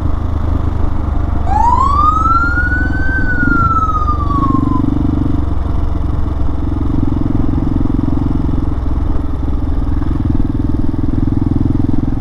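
Hawk 250 single-cylinder motorcycle engine running at road speed with wind noise on the bike-mounted microphone. About a second and a half in, a police siren gives one wail that rises and then falls away over about three seconds.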